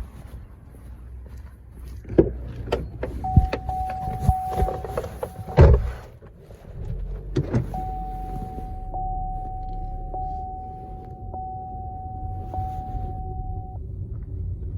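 Knocks and clicks of handling inside a car over a low steady rumble, with a steady electronic tone sounding twice, the second time for about six seconds with small regular breaks.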